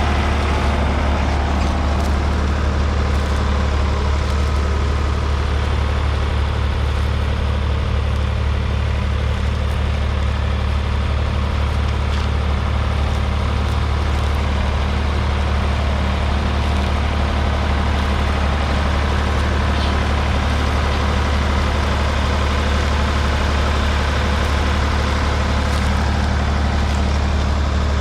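1967 Ford 3000's 2.9-litre three-cylinder diesel engine running steadily at an even, unchanging speed.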